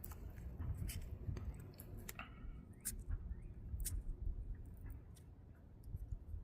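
A knife cutting and tearing the rubber lip off an old transmission axle oil seal, giving scattered small clicks and scrapes.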